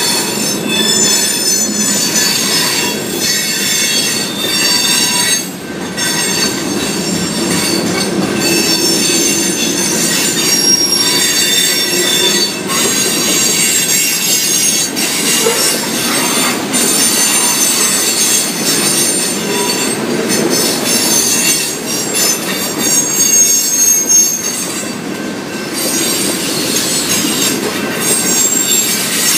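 BNSF coal train's open-top coal cars rolling past at close range: a steady rumble of steel wheels on rail, with several high-pitched wheel squeals held throughout and scattered knocks from the wheels.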